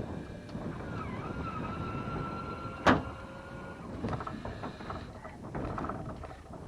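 Spinning reel drag giving line with a steady whine for about three seconds as a hooked redfish pulls, with one sharp click about three seconds in, over wind noise.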